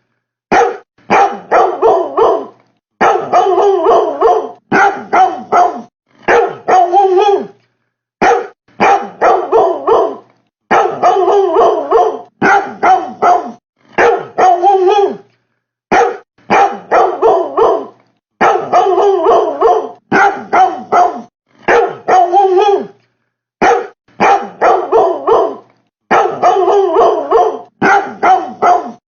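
A dog barking in quick volleys of three to five barks, each volley cut off sharply by a short silence, repeating every couple of seconds.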